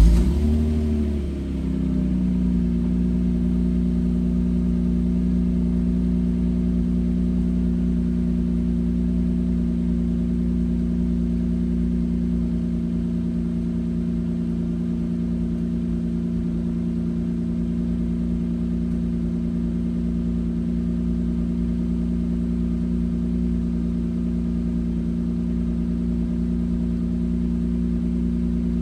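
1996 Lexus SC300's 3.0-litre inline-six catches on a cold start and flares briefly. About two seconds in it settles into a steady cold idle.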